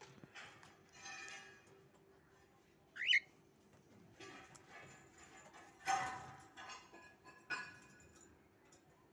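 Pet birds chirping and calling in short, separate calls: a quick whistled chirp about three seconds in and a louder call about six seconds in.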